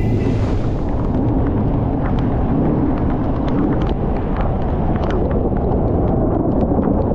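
Motorcycle riding in heavy rain: a steady low rumble of wind and engine, with many scattered sharp ticks of raindrops striking the microphone.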